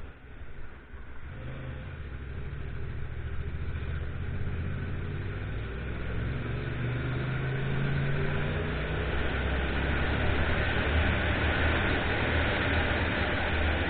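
Motorcycle engine pulling away and accelerating, its note rising in steps, with wind and road rush growing louder as speed builds.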